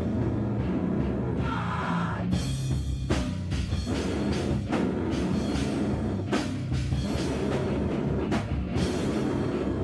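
Live loud rock/noise band playing: a drum kit with heavy cymbal and drum hits every second or two over a dense, sustained low-pitched wall of amplified instruments.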